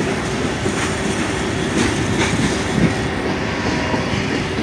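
Freight train of covered hopper cars rolling past at a grade crossing: a steady rumble of wheels on rail with a few sharp clacks as wheels cross the rail joints.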